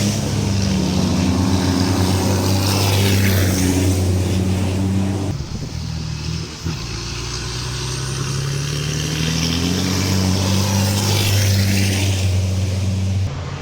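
Racing truck engines running loud and deep as the trucks pass at speed, with several rising-then-falling pass-bys. The sound breaks off abruptly about five seconds in and picks up again as a new pass-by.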